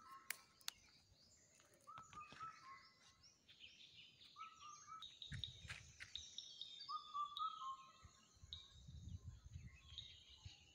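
Faint birdsong: one bird repeats a short two-note whistled call, the second note a little lower, about every two to three seconds, with lighter high chirping from other birds. The call is one that Nepali speakers render as 'bhatte keto'.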